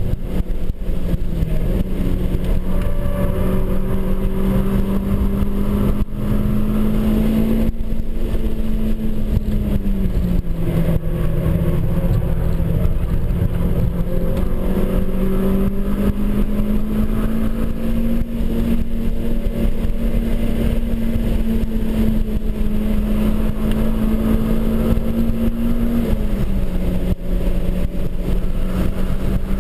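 A Renaultsport Clio Cup 200's four-cylinder engine running hard under load, heard from inside the cabin over steady road and wind noise. Its note climbs slowly and drops sharply in pitch twice, about ten seconds in and near the end.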